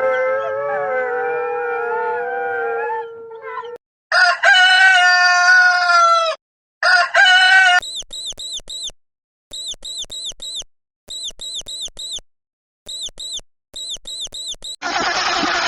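A sequence of animal calls. First come several drawn-out howls held together, which fade out. Then a loud crowing call falls in pitch for about two seconds and is repeated briefly, followed by runs of four or five short, high, falling chirps, and near the end a loud rushing noise starts.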